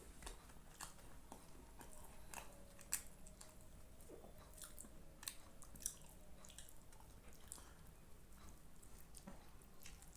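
A person chewing food close to the microphone, with scattered short wet mouth clicks and smacks; the sharpest come about three seconds in and about six seconds in.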